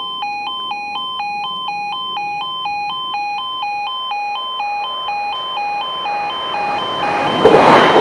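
Level crossing warning alarm sounding, two tones alternating in an even, repeating rhythm. Near the end a passing train's noise swells up sharply and becomes the loudest sound.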